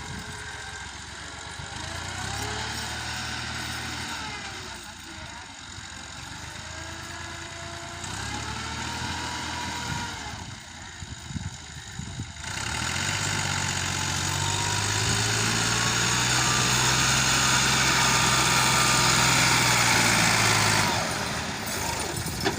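Massey Ferguson 260 tractor's diesel engine revving hard under load in three pushes, the last and loudest lasting about eight seconds before it drops off suddenly, as it strains to pull a stuck loaded vehicle free.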